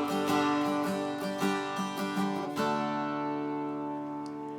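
Acoustic guitar playing a song's closing bars: a run of plucked notes, then a final chord about two and a half seconds in, left ringing and slowly fading.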